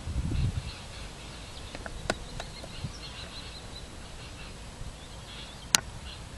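Birds chirping faintly and steadily. A low rumble in the first half-second, a few light clicks, and one sharp click near the end, which is the loudest sound.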